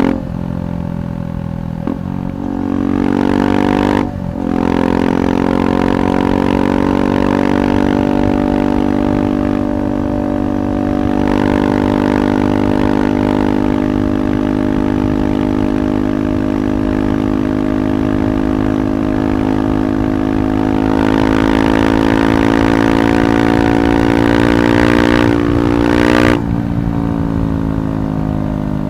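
KTM 390 Adventure single-cylinder engine running through a Red Rooster aftermarket exhaust while riding. Three quick gear changes come in the first few seconds, then the bike holds a steady pull with the engine note slowly climbing. The throttle snaps shut near the end and the note drops.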